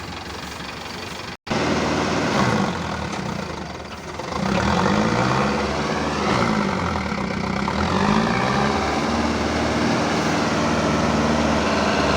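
Heavy Mahindra diesel engine, probably the tractor harvester stuck in the mud, running hard; its pitch rises and falls several times in the middle, then holds steady. A short break near the start.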